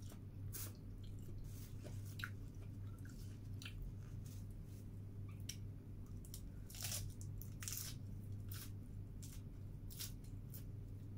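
Close-up eating sounds: crisp lettuce leaf bitten and chewed in irregular crunches and wet squishes, over a steady low hum.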